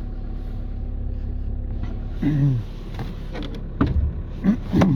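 Skoda Octavia 1.6 TDI four-cylinder diesel engine running steadily, still cold from a start at about minus 20 °C. A few short voice-like sounds and a dull thump come in over the second half.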